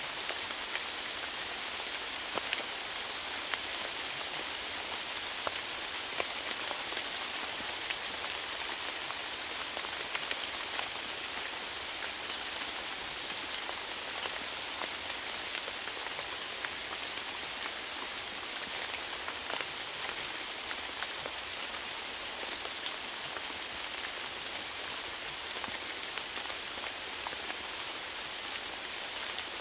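Steady rainfall, a constant hiss with many scattered drops ticking on a surface.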